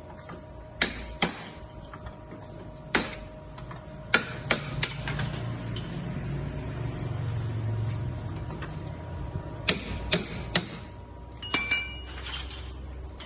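Hammer blows on metal, about ten sharp strikes in small groups of two or three, the one near the end ringing briefly.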